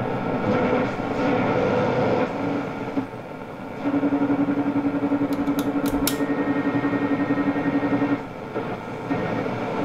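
Grundig 4198 tube radio's loudspeaker on the long-wave band while it is being tuned: a hiss of static, with a steady tone coming in about four seconds in and fading out near the end, and a few clicks in the middle.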